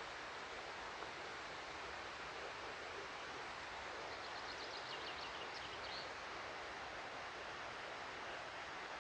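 Steady rushing of a stream, with a short bird call of rapid high chirps about four seconds in.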